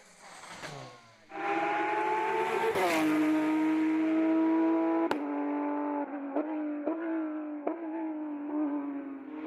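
Hill-climb race car engine at high revs, cutting in loud about a second in, its pitch climbing and then dropping sharply near three seconds in as it shifts gear. It then holds a steady high note, broken by a sharp crack and several short clicks with brief dips in pitch.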